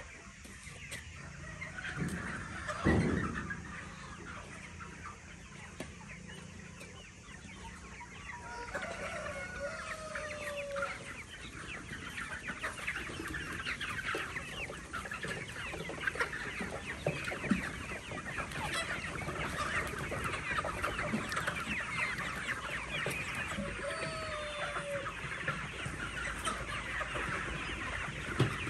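Birds calling: a few sliding calls over a dense patter of short, quick notes that grows busier about a third of the way in, with one louder knock near the start.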